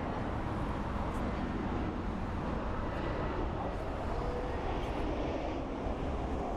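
Airbus A320's CFM56 turbofan engines heard as a steady jet rumble with faint whining tones as the airliner comes in to land.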